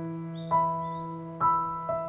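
Slow, gentle piano music: single notes struck about a second apart, each ringing on as it fades. A faint, short, high bird chirp sounds about half a second in.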